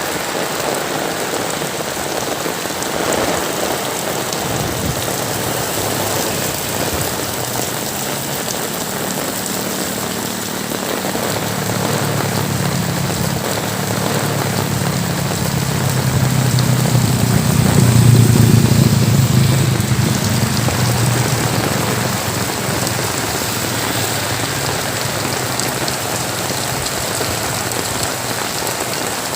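Heavy rain pouring down steadily. A low rumble swells and fades around the middle.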